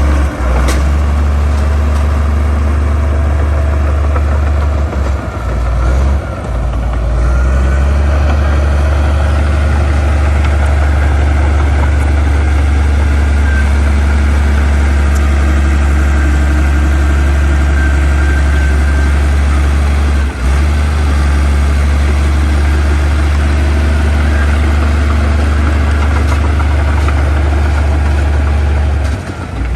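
Heavy diesel engine of earthmoving machinery running steadily at a constant pitch, with a few short dips in level about six, twenty and twenty-nine seconds in.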